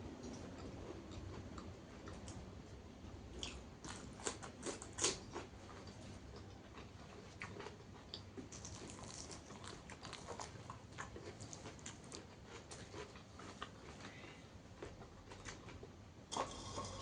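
A person chewing and biting into crisp food close to the microphone: repeated crunches and wet chewing from a lalapan meal of raw vegetables and fried fish. The sharpest bite comes about five seconds in, and a short burst of crunching comes near the end.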